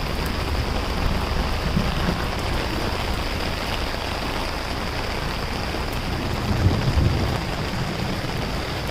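Heavy rain falling steadily, with gusts of wind buffeting the microphone, the strongest about seven seconds in.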